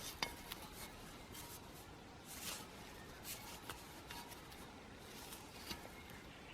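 Faint, scattered small clicks and rustles of light handling.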